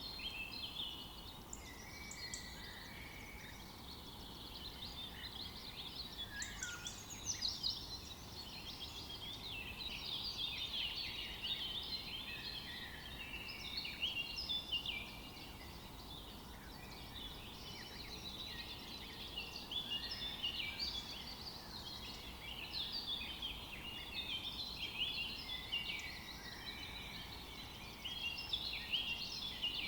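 Many small birds chirping at once: a dense chorus of short, high, overlapping calls over a faint steady background hiss.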